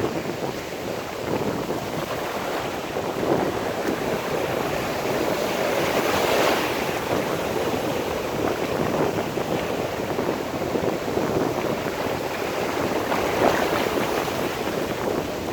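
Sea surf washing in, with a swell about six seconds in, and wind on the microphone.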